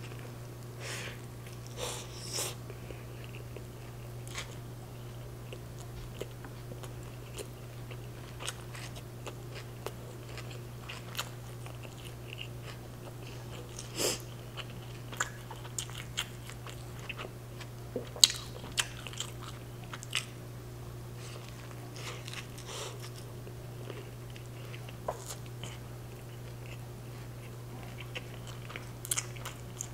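A person eating a chicken street taco by hand, close-miked: bites and chewing with scattered short wet mouth clicks and smacks, over a steady low hum.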